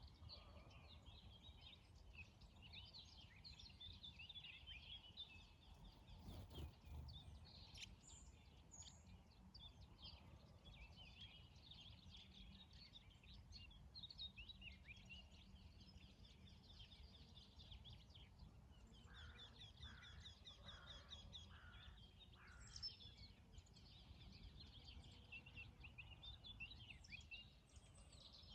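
Faint morning bird chorus: several small birds chirping and singing over a low steady rumble, with a fast trill about two-thirds of the way through.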